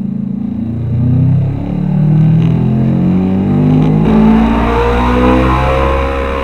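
Honda VFR800's V4 engine through a loud aftermarket Black Widow exhaust, accelerating hard: the engine note climbs, drops briefly at each upshift and climbs again several times.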